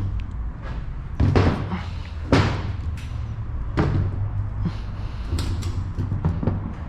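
Knocks and thuds of a disassembled Yamaha FZ 2.0 motorcycle engine being shifted and set down on a workbench, a handful of sharp knocks with the loudest about two and a half seconds in, over a low steady hum.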